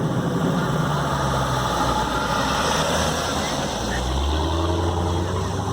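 A car engine running at low revs, its pitch shifting slightly about four seconds in, amid crowd chatter.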